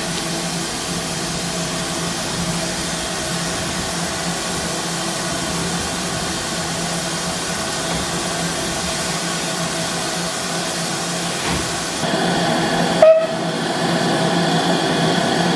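Steam locomotive letting off steam: a steady hiss with a faint steady tone in it. It grows louder about twelve seconds in, and a brief click comes just after.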